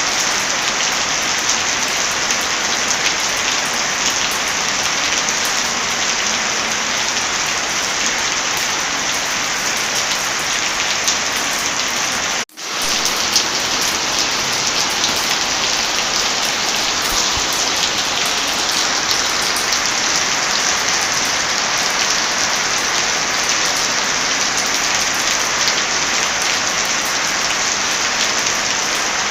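Steady heavy rain falling on a surface, a dense even hiss. About twelve seconds in the sound cuts out for a split second and comes straight back, like the join of a looped recording.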